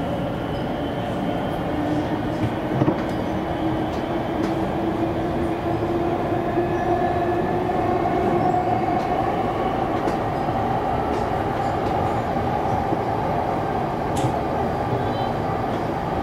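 Siemens electric multiple unit train running between stations, heard from on board: a steady rumble of wheels on track. A faint whine rises slowly in pitch through the middle and then fades.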